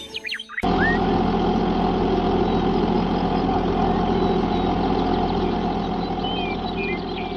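Small engine of a miniature tractor running at a steady idle. It starts abruptly about half a second in and keeps an even drone.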